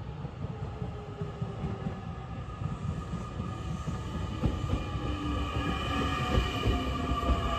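Electric multiple-unit train approaching and passing on the rails. The rumble of its wheels grows louder, and from about halfway a whine of several tones builds up, one of them slowly falling in pitch.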